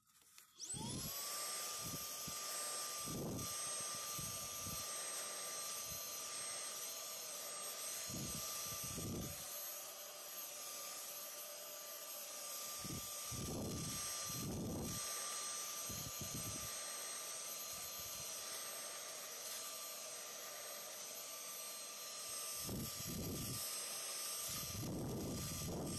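A high-speed electric appliance motor switching on and spinning up about half a second in, then running with a steady whine, with low thumps now and then.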